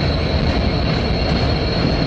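A freight train rolling past: a steady, loud rumble and rolling noise, with a thin, steady high-pitched whine over it.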